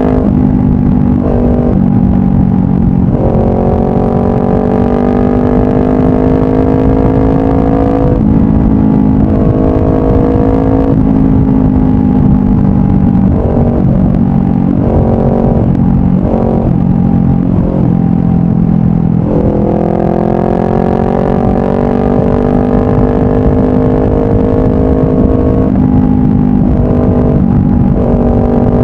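2018 Honda CBR500R's parallel-twin engine running through a Yoshimura full exhaust while riding, its pitch rising slowly under throttle and breaking off briefly several times, as at gear changes or throttle lifts.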